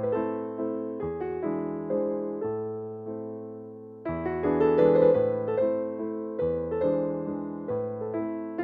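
Gentle background piano music: a melody of struck notes that ring and fade, growing quieter toward about four seconds in, then a louder phrase begins.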